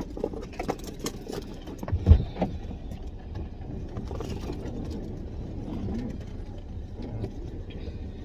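Inside a parked car: a steady low rumble with a dull, loud thump about two seconds in and scattered small knocks and clicks, as someone moves about and handles things in the car.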